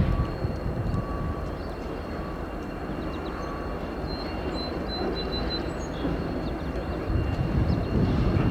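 Diesel freight locomotive (Maine Central 5968) running with a low rumble that grows louder near the end as it approaches. Faint short ringing tones repeat about once a second in the first few seconds.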